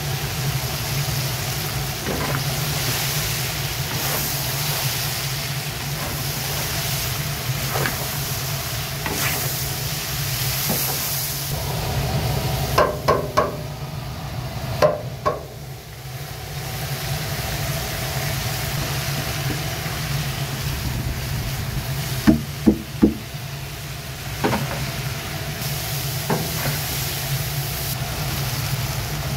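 Julienned carrots frying in hot oil in a cast-iron kazan: a steady sizzle over the low roar of a multi-jet gas burner. The carrots are stirred with a metal skimmer, which gives a cluster of sharp taps near the middle and three more quick taps a little later.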